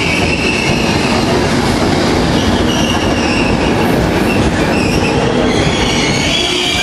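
Intercity passenger coaches rolling past close by: a steady, loud rumble of wheels on rail with high-pitched wheel squeal, strongest near the start and fading and returning later.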